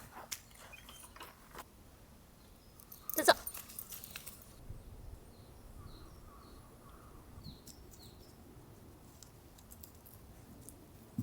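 Faint, short high bird chirps over quiet outdoor ambience, with a few light clicks near the start and one sharp clack about three seconds in, the loudest sound.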